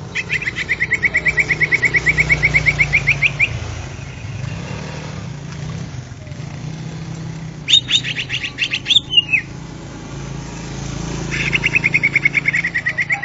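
Greater green leafbird (cucak ijo) singing: a fast trill of sharp repeated notes, about nine a second, lasting about three seconds. A short burst of notes ending in a falling note comes a little past the middle, and another trill starts near the end.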